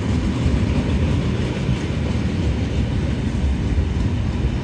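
Freight train of JNA and JRA bogie box wagons rolling past: a steady low rumble of wheels on the rails.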